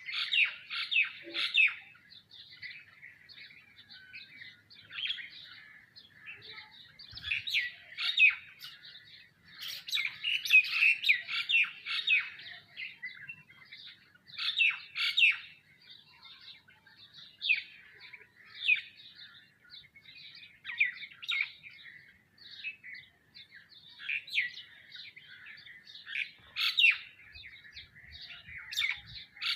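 A flock of small birds chirping: a steady stream of short, overlapping chirps in loud clusters every second or two.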